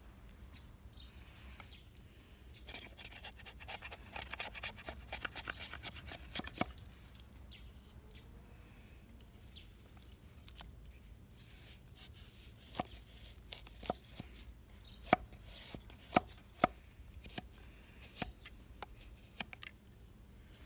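Dead pine wood being worked with hand tools: a few seconds of rapid scraping or sawing strokes, then after a pause a series of separate sharp knocks, several with a short ringing tone.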